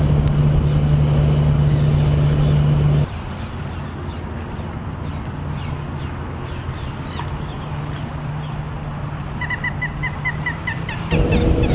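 Evinrude E-Tec 225 hp outboard driving a 24 ft fishing boat under way, a steady drone with a low hum. About three seconds in the sound cuts to a quieter passage of engine and water, with a quick run of short high chirps near the end, then cuts back to the loud running.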